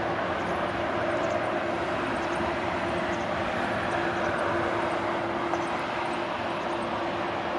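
Jet engines of an Airbus A340-300 airliner, a steady roar with a constant droning tone underneath.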